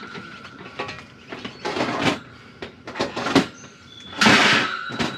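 Metal drip tray scraping and knocking as it is worked into its slot at the base of a Masterbuilt electric smoker, in several short rough bursts, the loudest a little after four seconds in.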